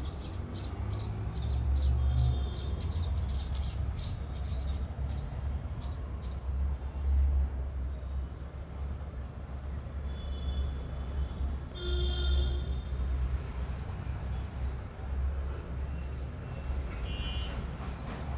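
Small birds chirping: a quick run of short, high chirps in the first several seconds, then a few scattered chirps later, over a steady low rumble.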